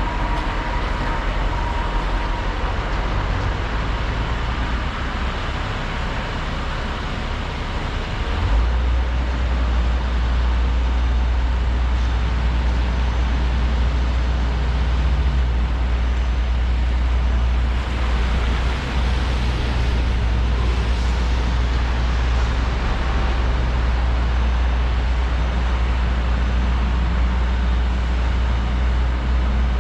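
Volvo 235EL excavator's diesel engine and hydraulics running steadily while working, with the low rumble growing louder about eight seconds in.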